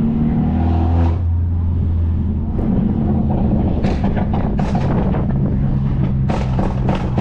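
Turbocharged Mercedes-Benz C250 with a straight-piped exhaust cruising, its engine droning steadily and shifting slightly in pitch a couple of seconds in, with a few short ticks in the second half.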